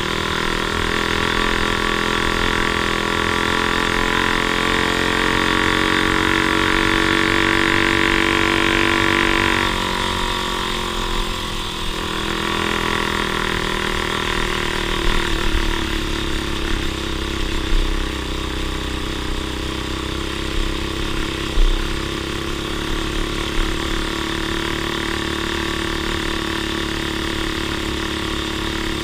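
Off-road vehicle engine running steadily, held at a higher note for the first nine or ten seconds and then settling lower and quieter as it eases off. A few short knocks come in the middle.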